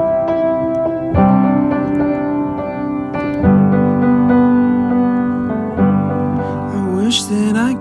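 Music: piano chords, each held and then followed by a new chord every two seconds or so, as the instrumental part of a slow song.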